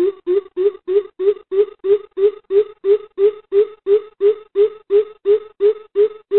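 Greater coucal giving its deep, hollow hooting call: a long, even series of low 'hoop' notes, about three a second, each note rising slightly in pitch.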